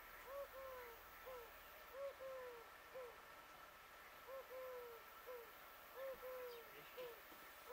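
A bird calling a three-note hooting phrase (a short note, a longer falling note, a short note), repeated four times about every two seconds.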